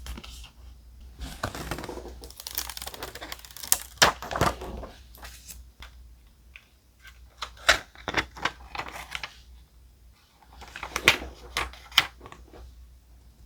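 Thick paper and stickers being handled close up: rustling and crinkling with sharp little taps and clicks, in three bouts with short pauses between.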